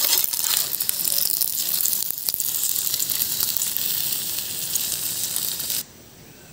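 Banana-leaf-wrapped pomfret parcels sizzling and crackling in hot oil on a pan. The sound stops abruptly near the end.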